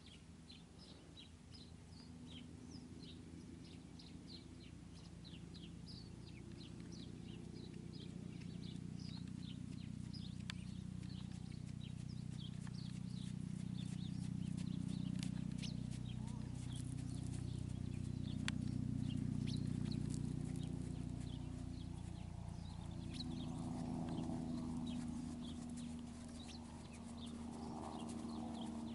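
Small birds chirping again and again in short high notes, over a steady low hum that grows louder towards the middle.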